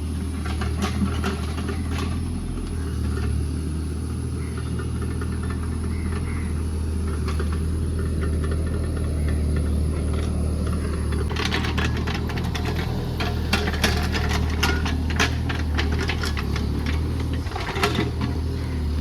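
JCB JS30 Plus mini excavator's diesel engine running steadily under work. From a little past the middle, a run of sharp clanks and rattles from the machine working comes over the engine, easing off near the end.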